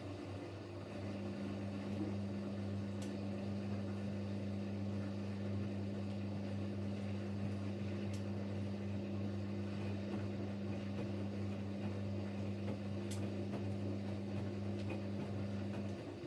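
Siemens Siwamat Plus 574 washing machine's drain pump running with a steady hum, pumping out the rinse water at the end of a rinse. The hum strengthens about a second in and cuts off shortly before the end.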